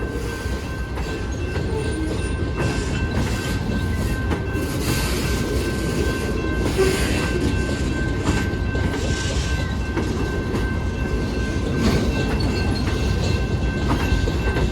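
Slow-moving freight train, mostly boxcars, rolling past: a steady low rumble of the wheels, with scattered wheel clacks and a thin, steady high whine over it.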